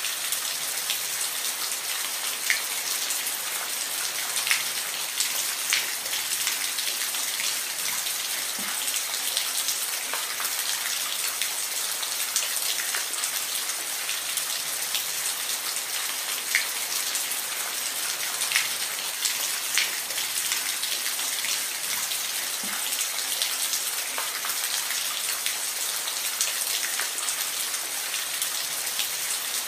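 Steady rain, a continuous hiss with scattered close drops ticking sharply on a surface.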